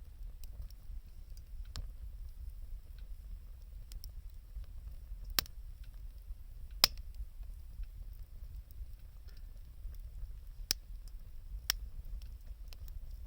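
Wood bonfire crackling, with sharp irregular pops a second or a few seconds apart over a steady low rumble; the loudest pop comes about seven seconds in.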